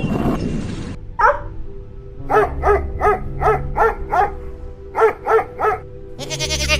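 A dog barking: one yelp, then a quick run of six barks and after a pause three more, over a steady background music track. Just before the end a goat starts to bleat.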